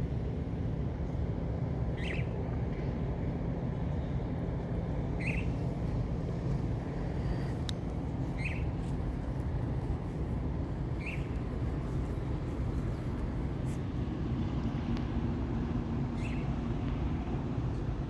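A bird giving a short chirp every few seconds, five times, over a steady low rumble.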